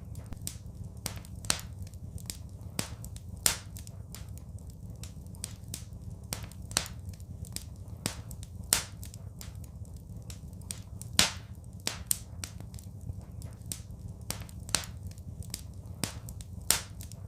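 Wood fire crackling: irregular sharp snaps and pops, a few louder than the rest, over a steady low rumble of the flames.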